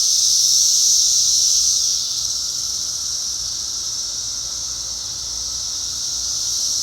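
Periodical cicadas in a dense chorus, a loud, steady high-pitched drone that eases off a little about two seconds in.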